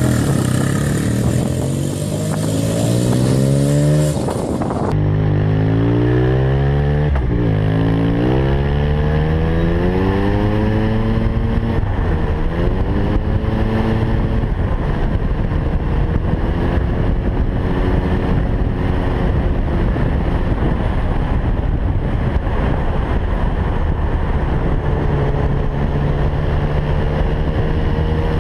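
Suzuki RE5's single-rotor Wankel engine revving, then the bike accelerating through the gears, its pitch climbing and dropping back at each shift, before settling into a steady cruise for the last half.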